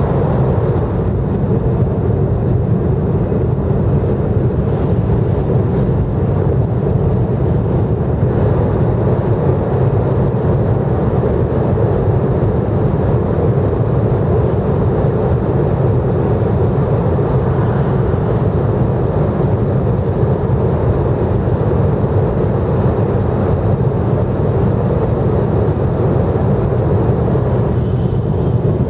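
Steady in-cabin running noise of an N700 series Shinkansen at speed in a tunnel: a constant low rumble with a rush of air and wheel noise. Near the end the sound changes slightly as the train leaves the tunnel.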